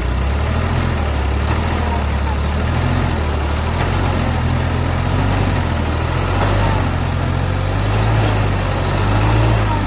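Heavy diesel engine of a backhoe loader or tractor running steadily at an even, low pitch.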